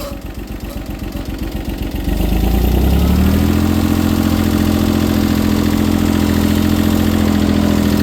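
Small three-cylinder diesel tractor engine cranking unevenly on the starter, catching about two seconds in and settling into a steady idle.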